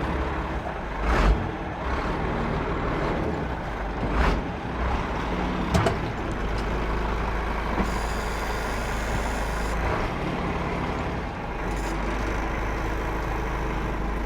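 Old Ford truck engine running steadily, with a few clunks in the first six seconds and a high hiss lasting about two seconds near the middle.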